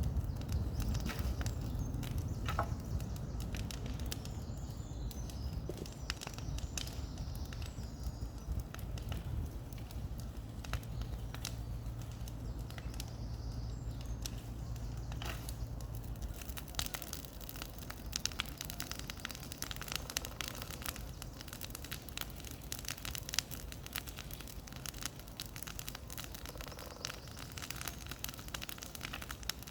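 Bonfire crackling and popping steadily with many irregular snaps, over a low rumble that fades out about halfway through.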